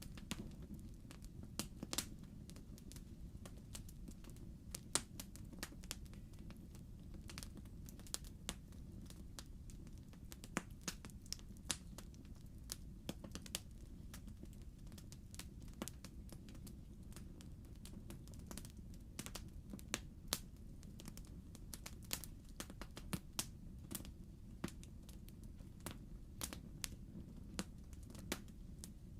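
Wood fire in a fireplace crackling: irregular sharp pops and snaps, several close together at times, over a steady low background noise.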